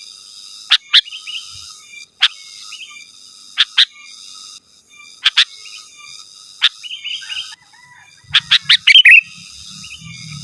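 Sooty-headed bulbul calling: loud, sharp, short falling notes, singly and in pairs a second or two apart, with softer bubbly chatter between them. Near the end comes a quick run of five or six notes.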